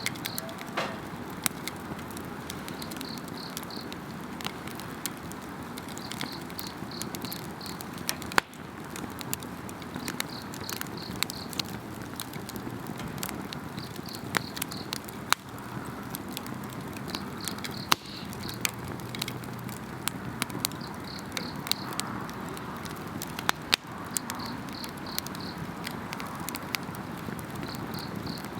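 Wood fire crackling with frequent sharp pops, while insects chirp in short pulsed bursts about every three seconds.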